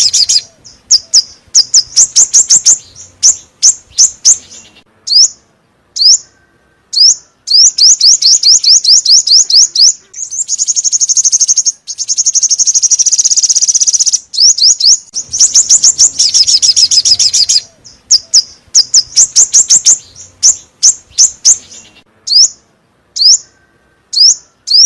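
Call of the Vietnamese 'five-colour bird' (chim 5 màu), a recording meant as a trapping lure: loud, high, rapid chirps that sweep sharply in pitch, in bursts of about one to two seconds separated by short silences, with a longer unbroken trill about ten seconds in.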